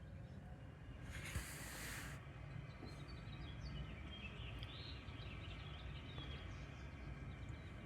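Outdoor ambience: a steady low rumble with faint bird chirps scattered through it, and a short hiss lasting about a second, about a second in.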